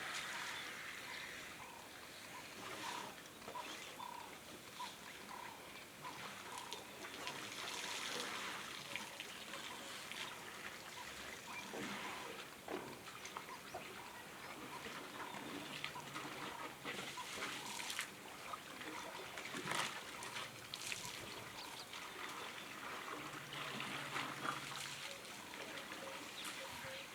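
Water trickling and splashing as large wild animals drink and move in a water hole, with scattered short splashes.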